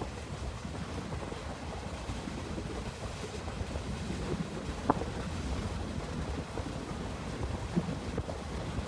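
Train running: a steady low rumble with a few short, sharp knocks, one about halfway through and another near the end.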